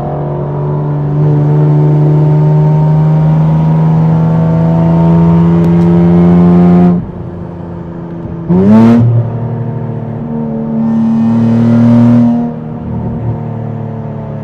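Infiniti Q60's twin-turbo V6, E85-tuned, pulling hard through a gear, its note climbing slowly before dropping off sharply about seven seconds in. It revs up quickly again near nine seconds, then makes another hard throttle run around eleven to twelve seconds.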